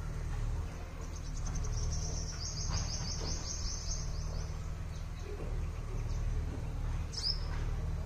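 A small bird twittering in a fast, high-pitched trill of rapidly repeated notes for about four seconds, then one sharp downward-sliding call near the end, over a steady low background hum.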